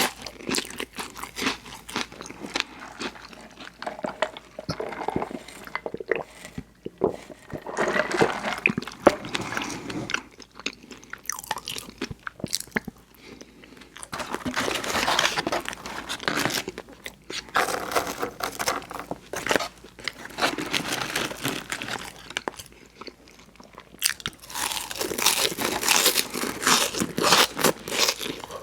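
Close-miked mouth sounds of a person eating: bites and crunchy chewing in bursts, with short pauses between mouthfuls.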